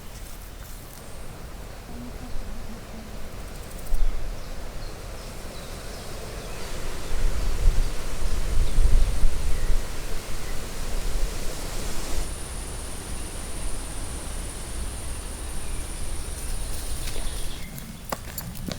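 Outdoor ambience with wind rumbling on the microphone, strongest about halfway through. A steady high-pitched tone, like an insect's, starts about twelve seconds in and stops about five seconds later.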